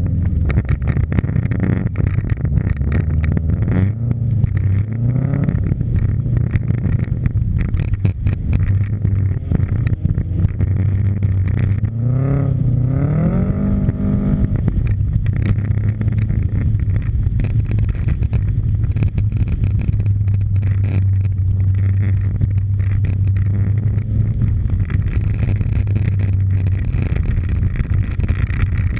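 Subaru Impreza STI's turbocharged flat-four engine running hard while driven on a snow track, a steady low drone with the revs climbing sharply once about halfway through before dropping back.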